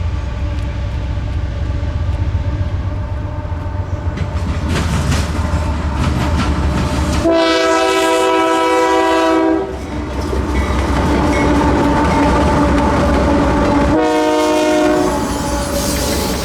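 Freight train passing with a steady low rumble of wheels on rail, while a Union Pacific locomotive's multi-tone air horn sounds a long blast about seven seconds in and a shorter one near the end.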